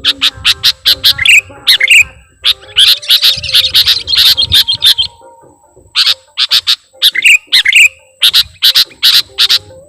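Sooty-headed bulbul (kutilang) calling: quick series of short, sharp notes with a dense burst of chattering in the middle. The calls break off for about a second past the middle, then resume. This is a lure call used to attract wild bulbuls.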